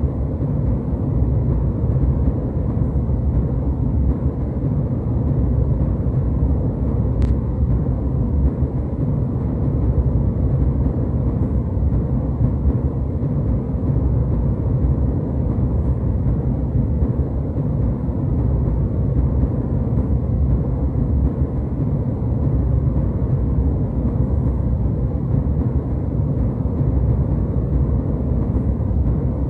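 Steady low rumble of a jet airliner cabin in flight, a deep, even noise with no change in level.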